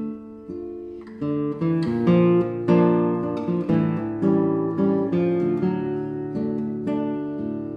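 Acoustic guitar music: plucked notes and chords, with several sharp attacks a second.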